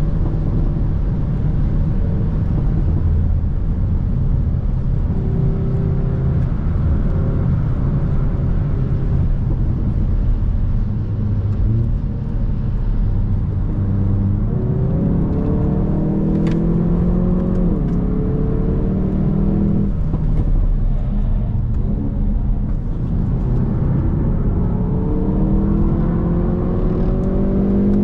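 Hyundai i30 N's turbocharged four-cylinder engine accelerating hard on track over a steady road rumble. In the second half its note climbs in pitch, drops suddenly at an upshift, and climbs again, then climbs once more near the end.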